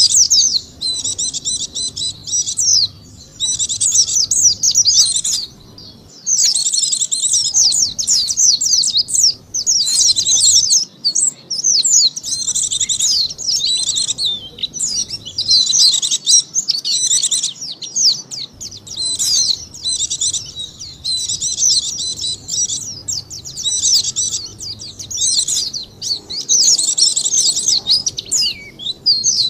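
White-eye (pleci) song played as a lure call: rapid, high twittering in phrases of a second or two, separated by brief pauses.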